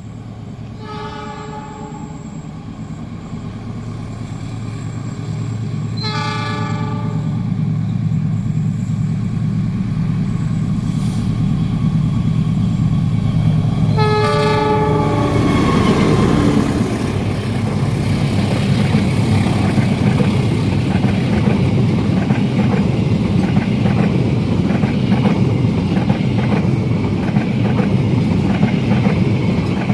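Diesel locomotive approaching, its engine drone growing louder, sounding its horn three times, each blast about a second long; it then passes close by with a long train, wheels clattering over the rails.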